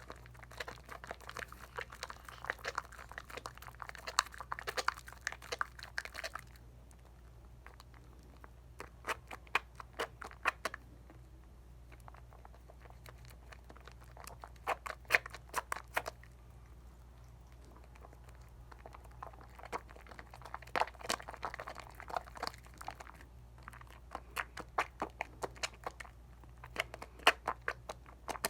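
Dial coconut soap lather being worked by hand: wet squishing and fine crackling of the suds, in bursts of a few seconds with short pauses between.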